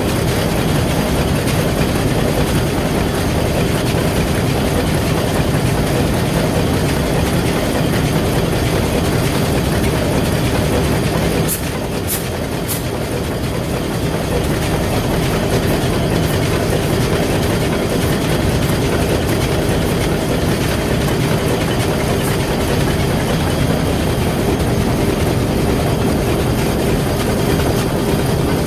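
Hanshin marine diesel main engine running steadily: a loud, even engine-room din. The level drops slightly about twelve seconds in, with a few faint high clicks.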